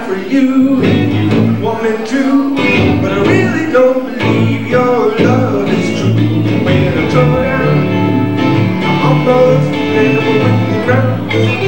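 Live blues band playing a blues number, with a walking bass line under lead lines that bend in pitch.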